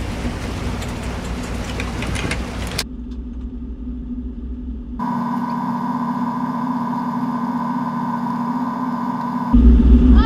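Sailboat's engine running steadily under way, with wind and water noise in the first few seconds. The sound changes abruptly about three and five seconds in, then becomes a steady hum with a clear tone in it.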